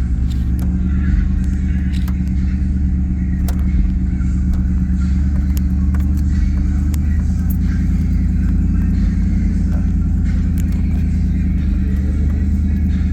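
Vehicle driving slowly, a steady low engine and road drone with a few light clicks and knocks over it.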